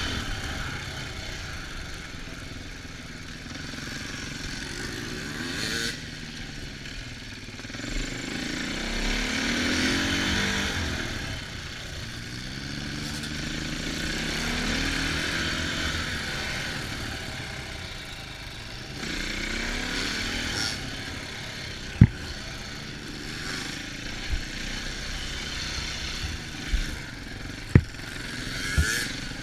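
Small off-road engine being ridden, its revs rising and falling several times as the rider speeds up and backs off. A few sharp knocks come in the last several seconds.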